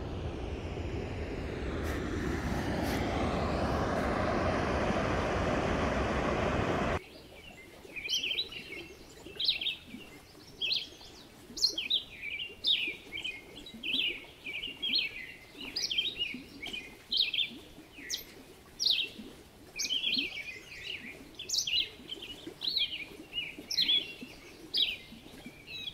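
A steady rushing noise for about seven seconds that cuts off abruptly. Then a small bird chirps over and over, short high calls about one and a half a second.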